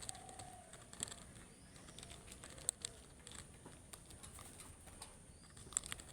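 Budgerigars at a faint, low level: scattered sharp clicks and taps, the loudest a little under 3 s in and near the end, with a soft short call just after the start.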